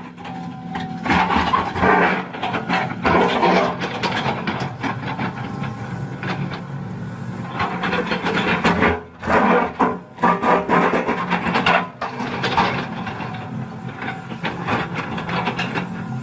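Tractor engine running steadily, with irregular rough, rasping noise surging over it throughout.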